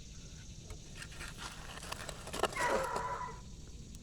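A dog with some hound in it baying once, a drawn-out call of under a second about two and a half seconds in, just after a short sharp click.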